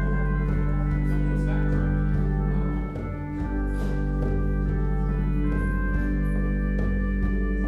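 Organ playing slow, sustained chords over a deep held bass, with the chord changing about three seconds in.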